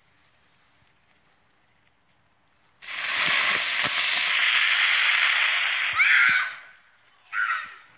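A small ground firework lit and spraying sparks with a loud, steady hiss for about four seconds, starting about three seconds in and dying out, followed by one short, sharp sound near the end.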